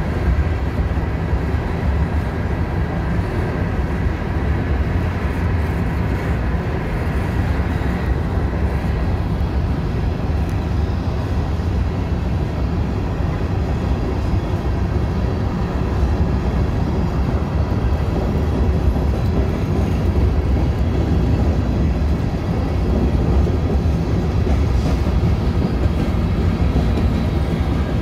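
Freight train's covered hopper cars rolling past on the track: a steady, loud rumble of steel wheels on rail, growing a little louder in the second half.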